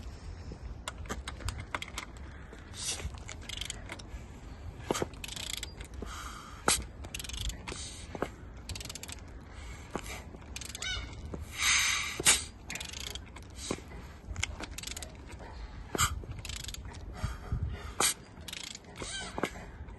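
Toyota 1G-FE two-litre inline-six engine being turned over by hand with a wrench, the starter being absent: irregular mechanical clicks and clunks, with a longer scraping noise about twelve seconds in.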